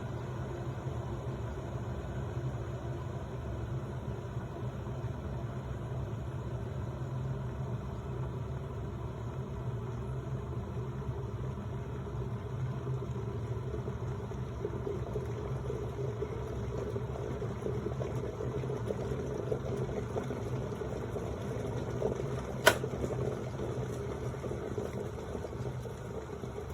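SEVERIN WK 3468 glass electric kettle heating water: a steady rumble that slowly builds. A single sharp click comes near the end.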